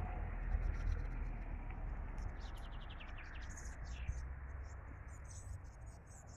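Small birds chirping in the trees, with a quick rattling trill of even ticks about two and a half seconds in and a thin high note near the end, over a steady low rumble.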